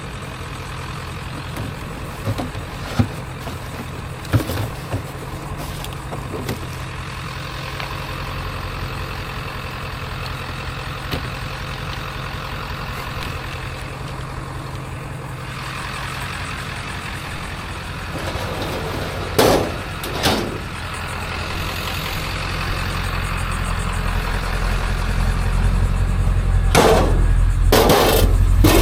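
A vehicle engine running steadily, getting louder over the last several seconds, with a few short knocks and clanks along the way.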